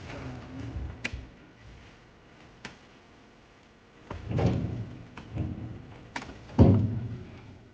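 Oil palm fruit bunches landing in a truck bed: two sharp knocks in the first three seconds, then three heavy thuds about a second apart, the last the loudest.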